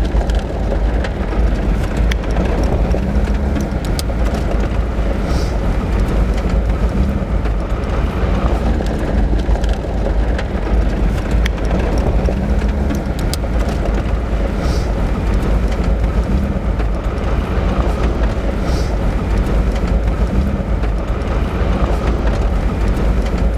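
Vehicle driving on a dusty dirt road: a steady low rumble of engine and tyres on the rough surface, mixed with wind noise.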